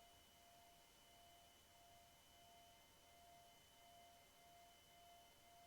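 Near silence: only faint, steady electronic tones and hiss, with no engine sound heard.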